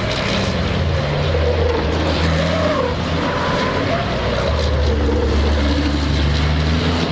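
European Truck Racing Championship race trucks' turbodiesel engines running on the circuit, the engine note shifting in pitch a few times as they drive and change gear.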